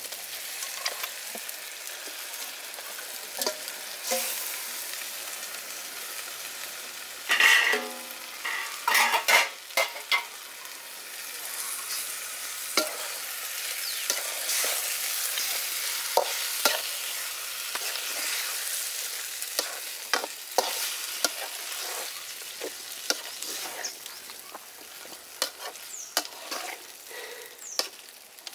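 Raw chicken pieces frying and sizzling in hot oil with onions and tomatoes in a metal kadai, stirred with a metal ladle that scrapes and clicks against the pan. A few louder scrapes and knocks come about a third of the way in.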